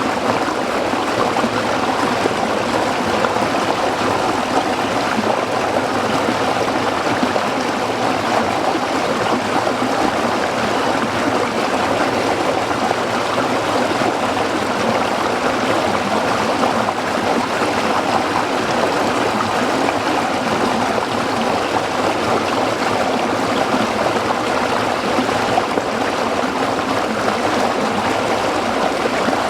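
Small stream running over rocks: a steady, even rush and babble of water.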